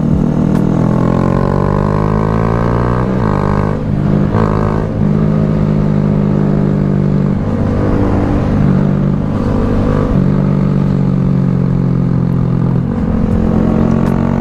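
Honda Grom motorcycle's small single-cylinder engine running under load, its pitch climbing and then stepping down several times as it is shifted through the gears.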